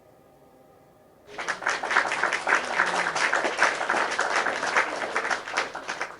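A dense, steady patter of many sharp clicks, like applause, starting about a second in.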